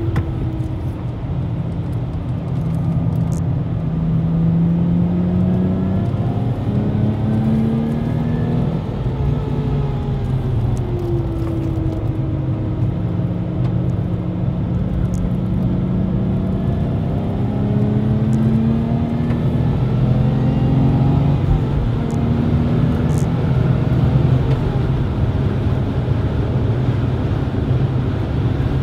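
Supercharged Lexus IS200's 2.0-litre straight-six heard from inside the cabin on track. The revs rise and fall several times through corners and gear changes, over steady road and tyre rumble.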